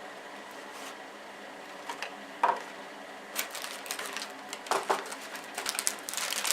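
Handling of a cardboard model-kit box and the plastic bags of parts inside it: scattered taps, clicks and short rustles that grow busier toward the end.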